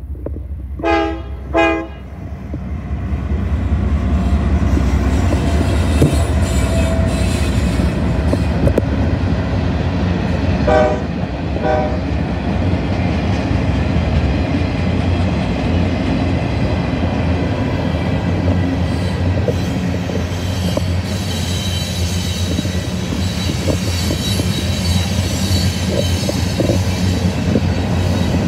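Norfolk Southern diesel freight locomotives' air horn sounding two short blasts about a second in and two more about eleven seconds in, over the deep rumble of the passing engines. Then a long train of freight cars rolling by with steady wheel noise on the rails.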